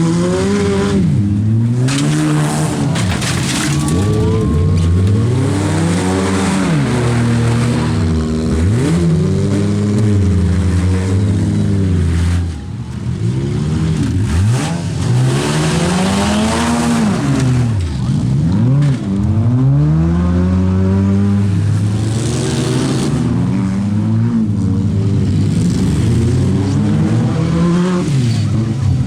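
Several compact demolition-derby cars' engines revving up and falling off over and over, overlapping one another, with tyres squealing at times.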